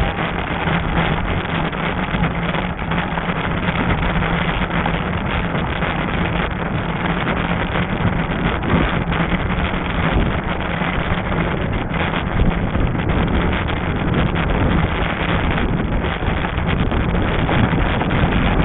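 Wind buffeting the action camera's microphone during an e-bike ride, over a steady low hum.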